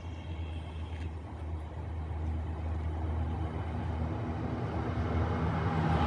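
An approaching train: a low, steady rumble that grows steadily louder.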